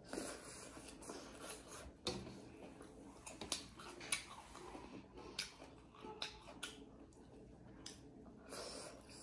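Close-miked eating sounds: chewing and wet lip-smacking as a person eats buffalo meat and rice by hand, with sharp clicks and smacks scattered irregularly throughout.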